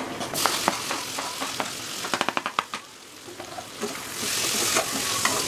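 Chopped tomatoes going into hot oil with frying onions in a metal kadai and being stirred in with a spatula: steady sizzling, a quick run of clicks from the spatula against the pan about halfway through, and a louder burst of sizzle about four seconds in.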